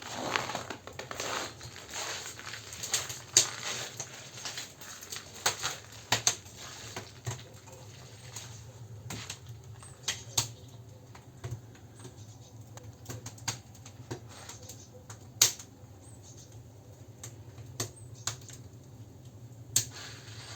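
Wood campfire crackling: irregular sharp pops and snaps, thick for the first couple of seconds and then spaced out, a few a second.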